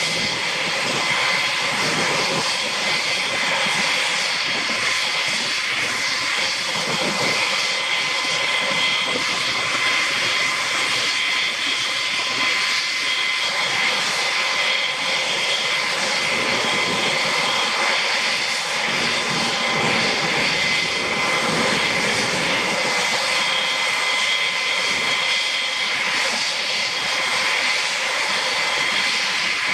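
UH-60 Black Hawk helicopter's twin turboshaft engines running with a steady high-pitched turbine whine over a constant rushing noise.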